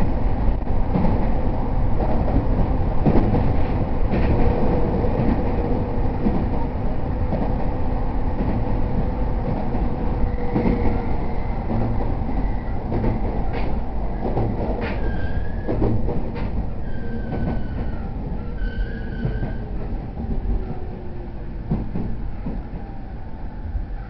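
Interior running sound of an E231 series 0 electric commuter train between stations: a steady low rumble of wheels on rail with scattered clicks from rail joints. A faint even tone runs through the first half, and a few short high-pitched tones come in the second half.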